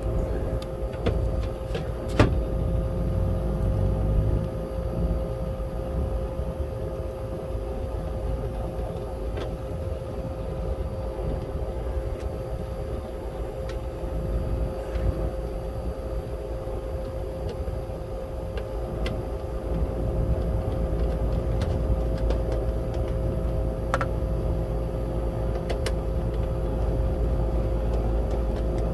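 Air-conditioner condenser unit running on its new 40/5 µF dual run capacitor, with a steady hum and low rumble from the compressor and fan motor. A few faint ticks sound over it, with one sharp click about two seconds in.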